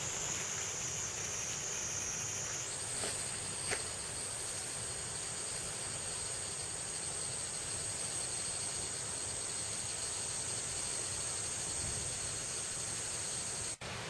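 Insects singing steadily in high-pitched trills, over an even background hiss; the pitch of the chorus steps up about three seconds in. The sound cuts out briefly near the end.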